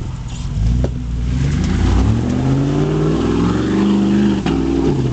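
2001 Chevrolet 1500 Z71 pickup's engine revving hard and rising in pitch, then cutting out suddenly near the end. The engine is dying after sucking water in through its intake.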